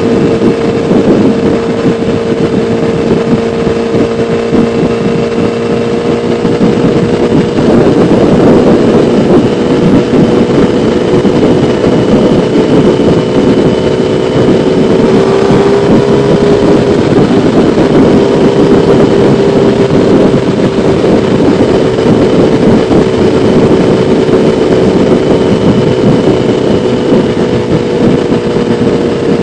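Kawasaki ZX-10R inline-four engine running at fairly steady revs under way, over rushing wind and road noise. The engine note sags slightly about halfway through and comes back up near the end.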